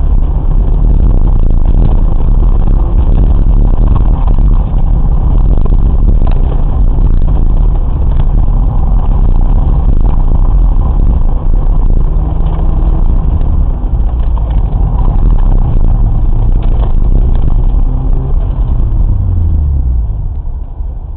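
Car engine heard from inside the cabin through a dashcam's microphone while the car is driven hard through a cone course, the engine pitch rising and falling with the throttle. Near the end the engine note falls and the sound fades as the car slows.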